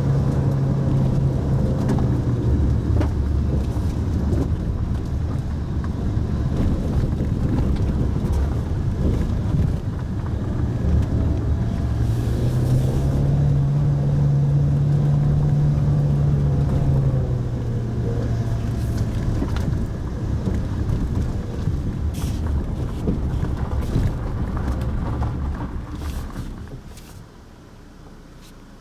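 Mitsubishi Pajero Mini's engine and road noise heard from inside the car as it drives, the engine note stepping up and down with speed. About 26 seconds in, the sound falls away sharply as the car slows to a stop.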